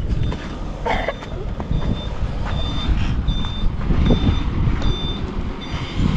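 A truck's reversing alarm beeping a little more than once a second over the steady low rumble of its engine as it backs up.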